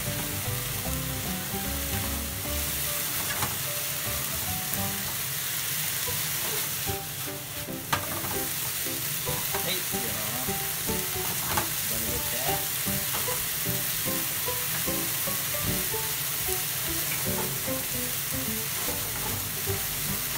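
Diced chicken, onion and red bell pepper sizzling steadily in a frying pan as they are stir-fried with a wooden spatula, with an occasional tap of the spatula against the pan.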